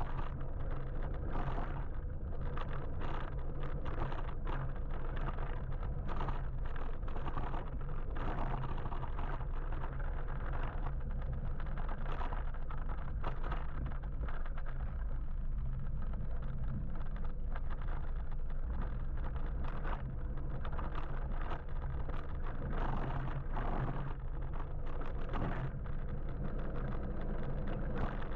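Steady low road and wind rumble while riding an electric motorbike through city traffic, with frequent small knocks and clicks scattered through it.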